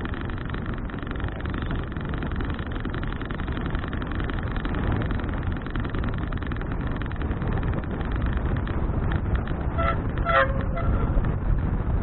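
Wind buffeting an action camera's microphone on a moving bicycle, a steady low rumble. About ten seconds in, a short pitched tone sounds twice in quick succession.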